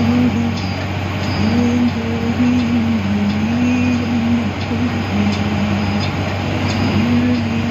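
Inside a moving bus: a steady low engine drone and road noise, with a tone that wavers up and down and faint scattered rattles.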